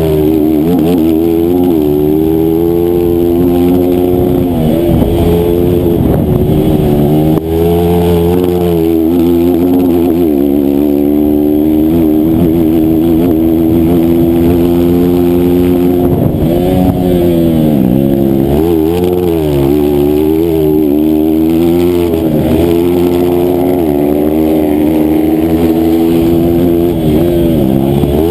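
160cc racing motorcycle engine running hard at high revs. Its pitch drops and climbs back up several times as the rider comes off and back on the throttle.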